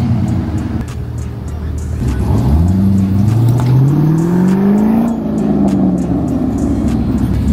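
A car engine accelerating, its pitch climbing steadily for about three seconds, then falling away as it eases off or passes by, over a steady mix of engine noise and background music.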